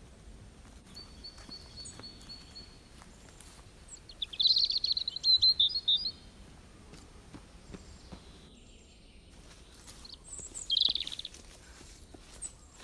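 Birds calling in the trees. A thin, steady high whistle is followed about four seconds in by a loud, rapid chattering call lasting a couple of seconds, and a shorter burst comes near the end. Faint footsteps sound on a dirt path.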